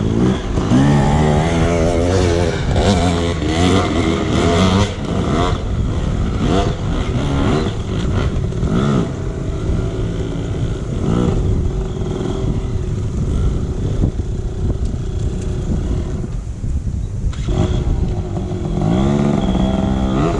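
Dirt bike engines revving up and down over and over as riders throttle through a hard enduro section, with a short lull in the revving late on before a strong rev near the end.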